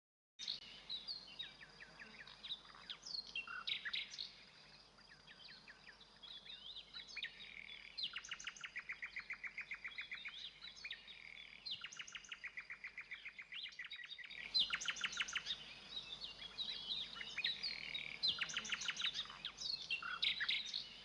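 Songbirds singing: overlapping chirps and fast trills of repeated high notes, over a faint steady background.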